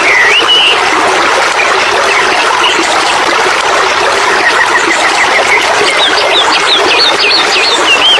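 Steady rush of running water, like a stream, with a songbird whistling short swooping notes near the start and a quick run of chirps from about six seconds in.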